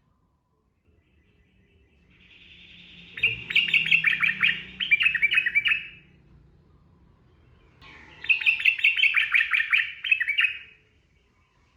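Yellow-vented bulbul (trucukan) singing two loud, fast-chattering song phrases, each about three seconds long, the first starting about three seconds in and the second about eight seconds in, with a quiet pause between.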